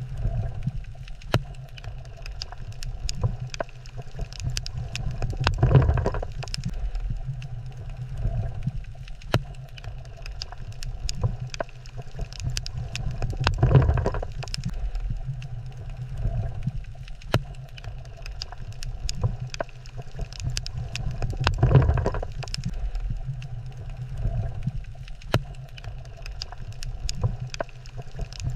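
Underwater reef ambience: a steady low rumble of moving water that swells and fades about every eight seconds, scattered with many small sharp clicks and crackles.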